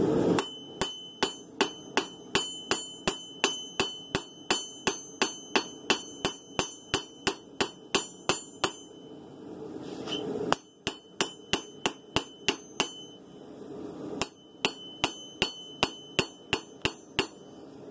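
Hand hammer striking a hot san mai steel blade on an anvil with quick glancing blows along the edge, about three to four blows a second. Each blow rings high. The blows come in three runs separated by short pauses, thinning the blade's edge bevel down to heat-treat thickness.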